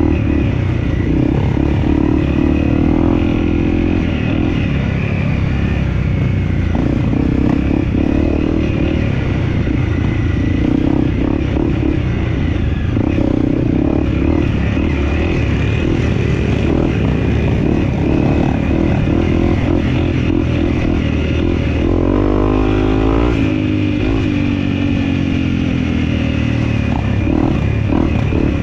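Dirt bike engine running continuously on an off-road trail, its pitch wavering with the throttle, with a quick rev up and back down about three quarters of the way through. Short knocks and rattles come from the bike over rough ground.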